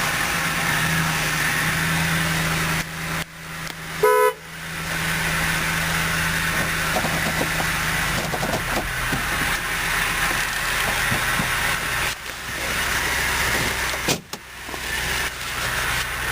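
2006 Dodge Durango engine idling steadily after start-up, with one short horn toot about four seconds in.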